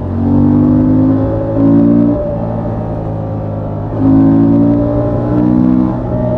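Honda XL750 Transalp's 755 cc parallel-twin on its stock exhaust, running at a steady road speed. The exhaust swells louder twice, about two seconds each, as the throttle is opened, then settles back.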